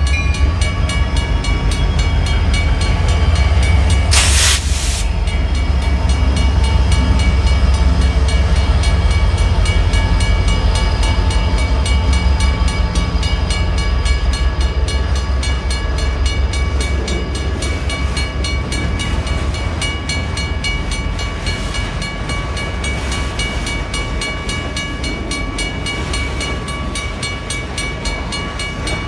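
WRRS mechanical crossing bell ringing with rapid, even strokes over the low rumble of a CN freight train with diesel locomotives going through the crossing. The rumble is heaviest in the first half and then eases off. There is a short hiss about four seconds in.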